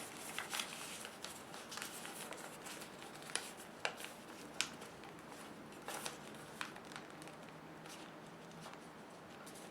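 A sheet of paper being handled and folded: soft rustling with a handful of sharp ticks as the paper flaps are lifted and pressed.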